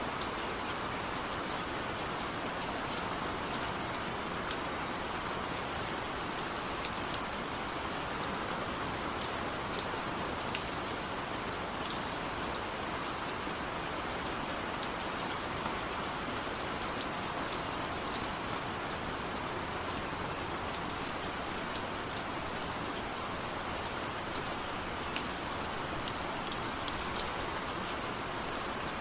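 Steady rain falling, with scattered sharp ticks of individual drops striking a surface close by.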